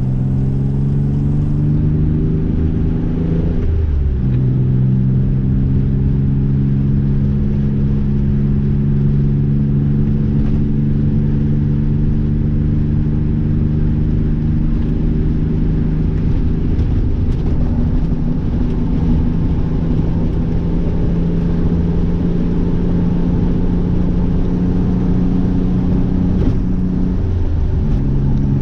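Nissan 300ZX's V6 engine running under way with road noise. The engine note climbs, breaks off about four seconds in and comes back lower, holds steady, then dips briefly again near the end.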